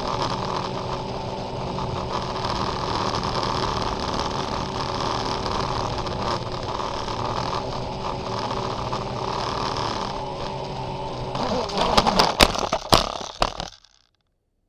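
A motor running with a steady hum, then a few loud knocks and clatter near the end before the sound cuts off abruptly.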